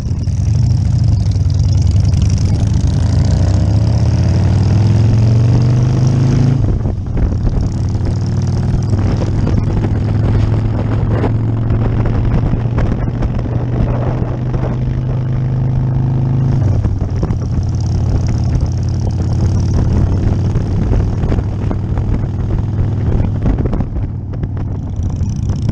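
Harley-Davidson V-twin motorcycle engine running at road speed, its revs climbing through the first several seconds and its note dropping and changing about two-thirds of the way through, with steady wind rush.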